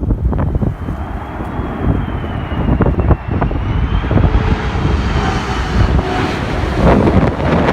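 Aircraft engines passing, a thin high whine that wavers up and down, with a broad rushing noise building in the later seconds, under strong wind buffeting the microphone.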